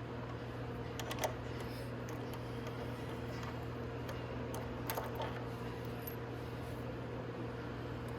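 Hand tools working the tight bolts of a motorcycle's front brake caliper, giving a few short metallic clicks about a second in and again around five seconds in, over a steady low hum.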